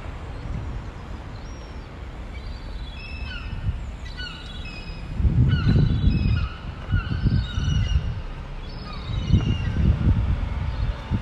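Birds calling in a busy flurry of short, repeated pitched calls. Low rumbling gusts come in about halfway through and again near the end.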